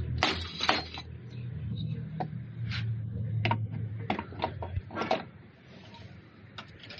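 Diesel engine running with a low steady hum and scattered sharp clicks over it, shutting off about five seconds in.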